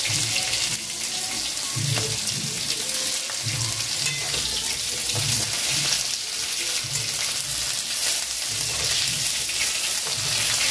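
Pieces of pointed gourd (potol) sizzling steadily as they fry in oil in a metal kadai, turned now and then with a spatula that knocks and scrapes against the pan roughly once a second. The potol are close to fried through.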